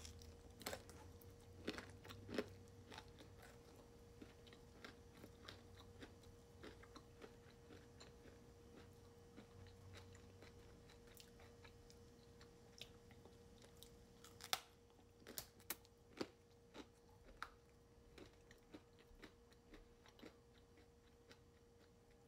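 A person chewing a bite of flatbread pizza: quiet, irregular crunching and mouth clicks, with louder crunches near the start and again about two-thirds of the way through.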